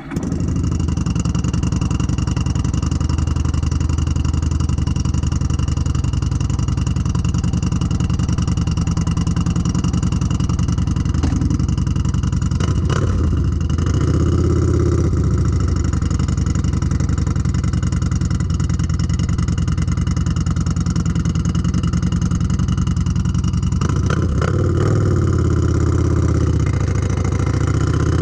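Yamaha Bolt's air-cooled V-twin running through a Baron 4-inch slip-on muffler at a casual riding pace, a steady exhaust note with the pitch shifting briefly about halfway through and again near the end.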